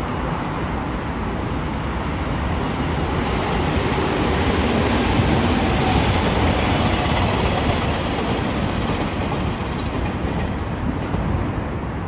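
A JR Kyushu electric multiple-unit train passing on the tracks: the sound of its wheels on the rails builds, is loudest about halfway through as it goes by, and then fades.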